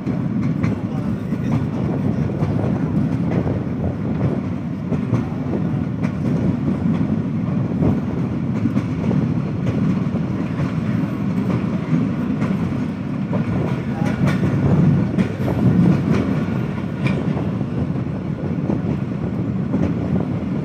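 Passenger train running along the track: a steady low rumble with scattered clicks from the wheels over the rails.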